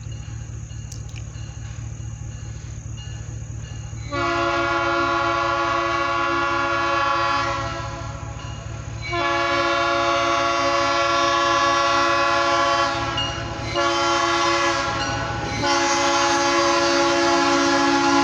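Alco diesel locomotive's horn sounding the grade-crossing signal, two long blasts, a short one and a long one, over the low rumble of the engine. The rumble is heard alone for about the first four seconds before the horn begins.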